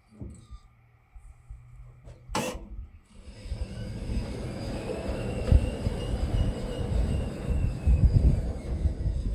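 A sharp crack about two seconds in, then a bandsaw mill running steadily from about three seconds in, with a high whine over a noisy low rumble.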